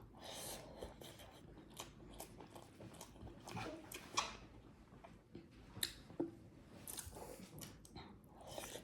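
Person eating rice and chicken curry close to the microphone: soft, irregular chewing with scattered small mouth clicks.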